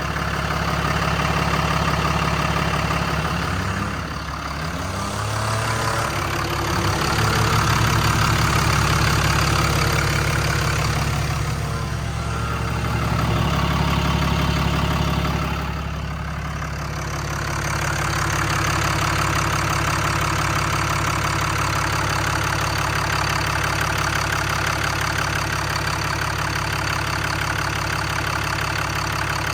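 Cummins diesel engine of a Ram 5500 running steadily, its speed and load rising and falling several times.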